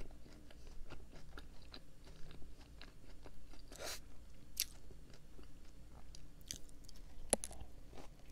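A person chewing a Lotus Biscoff cookie donut, with many small crunches and clicks from its crushed-biscuit topping, then taking another bite near the end.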